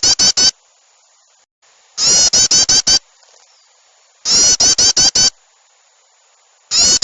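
Looped bird-lure recording of agitated yellow-vented bulbul (trucukan) chatter: loud bursts of about six rapid harsh notes each, repeating roughly every two seconds, four times, as an alarm-style 'ribut' call meant to draw small birds in.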